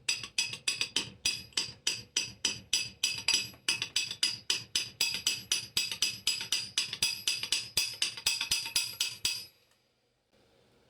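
Rapid, evenly spaced ticking taps, about five a second, each with a short bright ring; they stop abruptly near the end.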